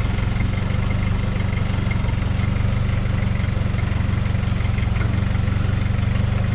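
Turbo-diesel off-road truck engine idling, a steady low hum.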